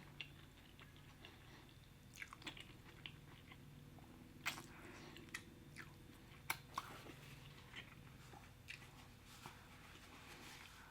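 Close-miked eating: soft, wet chewing and mouth smacks of creamy shrimp Alfredo pasta, heard as scattered quiet clicks, the sharpest about four and a half and six and a half seconds in.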